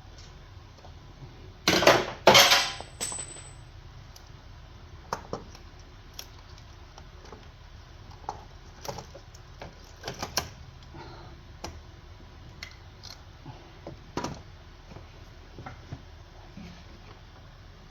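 Metal tools and parts clinking and clattering: scattered knocks and clinks, the loudest a pair of short jangles about two seconds in.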